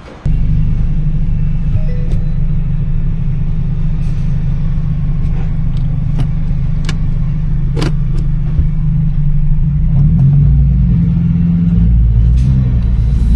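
Car driving on the road, heard from inside the cabin: a steady low rumble of engine and tyres, with a few light clicks and knocks.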